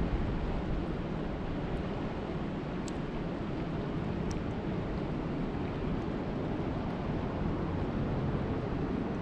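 Steady rainfall, a continuous even hiss with a heavy low rumble underneath.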